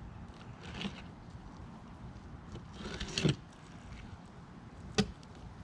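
Fillet knife cutting through a kingfish fillet to take out the pin bones: two short slicing scrapes, the second about three seconds in, then a sharp tap near the end, over a steady background hiss.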